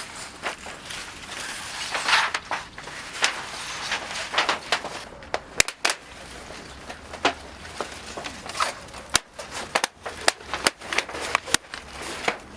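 A series of irregular sharp clicks and knocks over faint rustling, with no steady rhythm.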